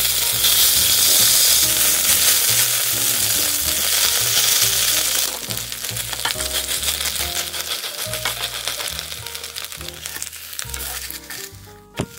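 Shredded potato and tofu pancake mixture sizzling loudly in hot oil in a nonstick frying pan, with a spatula pressing and scraping it flat. The sizzle eases to a lighter crackle of small pops about five seconds in.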